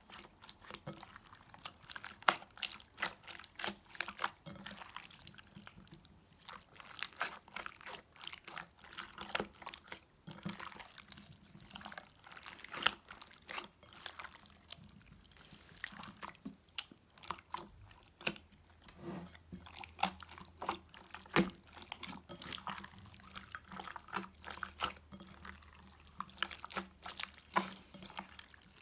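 Slime being squeezed and worked by hand, giving irregular wet clicks and pops.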